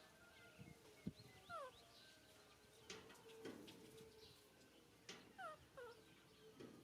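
Baby monkey giving faint, short, falling squeaks several times, with a few soft clicks in between.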